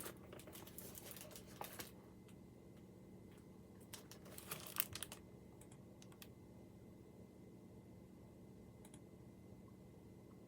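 Computer keyboard typing in two short bursts, about two seconds each, over a faint steady hum.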